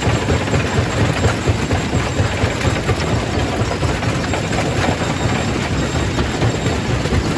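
Quarry primary rock crusher running, a steady heavy mechanical din with a constant clatter of rock being broken.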